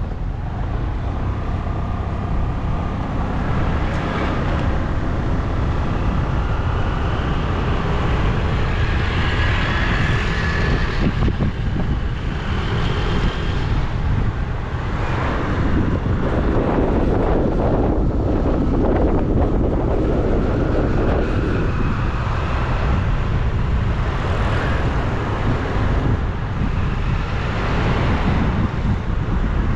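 Wind buffeting the microphone on a moving bike, over steady road and vehicle noise, with a few brief higher tones here and there.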